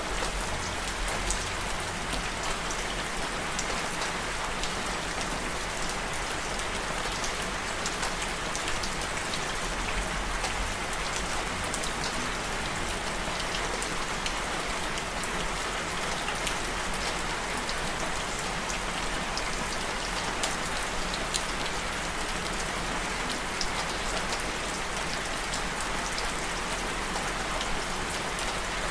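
Steady rain falling on a surface, a continuous hiss dotted with individual drop ticks.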